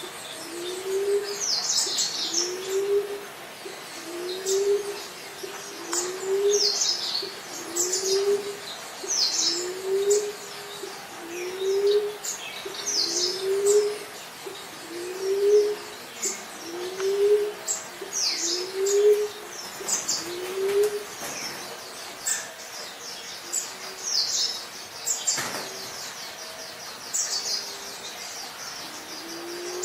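Emerald dove calling, a low, soft coo repeated about once a second. The calls stop about two-thirds of the way through and start again near the end. Small birds chirp high above it throughout.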